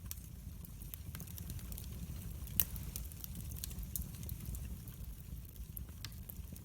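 Wood fire burning in a fireplace: a soft steady low rumble of flames with scattered crackles and pops, the loudest pop about two and a half seconds in.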